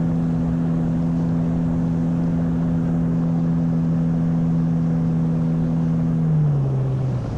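Motorboat's outboard engine running at a steady speed, then throttled back about six seconds in, its pitch falling.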